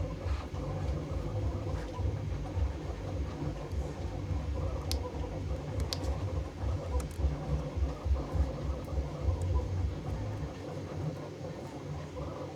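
Stepper motors of a workshop machine running, a low, unevenly pulsing whirr with a faint steady hum and a few light clicks.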